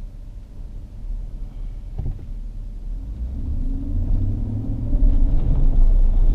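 Engine and road rumble heard from inside a moving vehicle. It grows louder from about three seconds in, with an engine hum rising in pitch as the vehicle speeds up.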